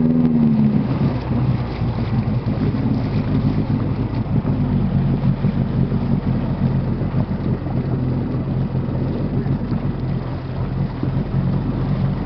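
Jet ski engine running steadily, with wind on the microphone.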